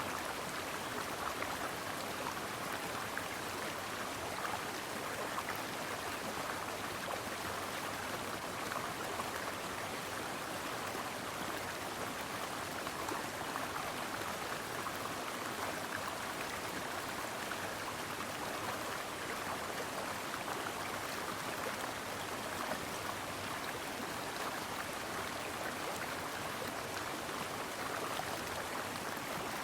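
Shallow stream running over rocks: a steady babbling and splashing of water.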